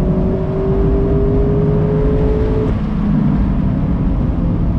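A 2019 Mazda MX-5 Miata Club's naturally aspirated 2.0-litre inline-four, heard from the open-top cabin, pulls with a note that rises slowly and then drops away suddenly about two and a half seconds in, as if on a lift or gear change. Steady low road noise runs underneath.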